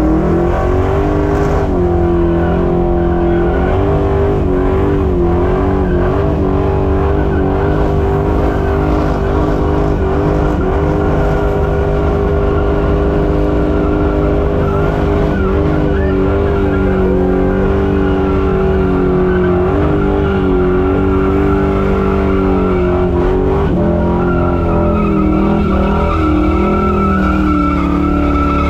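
Holden HQ Monaro's engine held at high revs through a long burnout, with the rear tyres spinning and squealing. The revs dip briefly and recover a few times in the later part.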